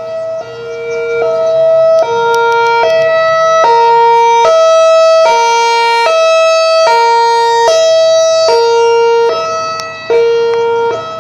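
Loud two-tone hi-lo siren, switching between a higher and a lower pitch about every eight-tenths of a second, growing louder about two seconds in.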